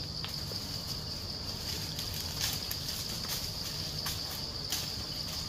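Insects droning steadily on one high, even pitch, with a few short clicks and rustles scattered through it.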